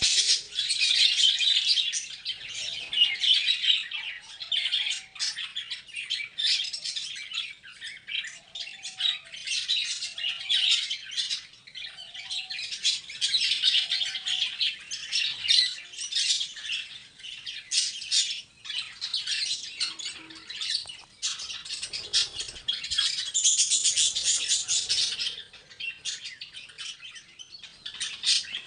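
A flock of caged parrots chirping and squawking together in a dense, unbroken chatter of many short, high calls.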